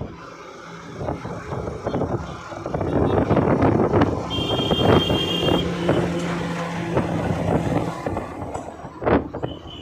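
Road noise from a moving motorcycle and nearby traffic: engine, tyre and wind noise that swells loudest through the middle. A brief high steady tone sounds near the middle.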